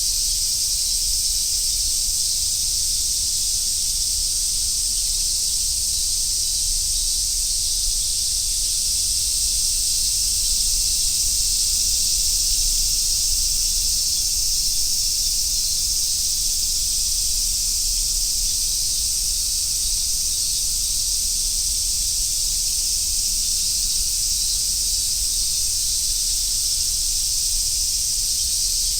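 A chorus of summer cicadas buzzing in a continuous, steady, high-pitched drone, with a faint low rumble underneath.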